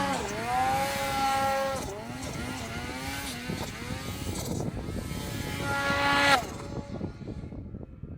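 Snowmobile engine revving up and down repeatedly under throttle, its pitch rising and falling. About six seconds in the engine note drops away suddenly, leaving a fainter low rumble.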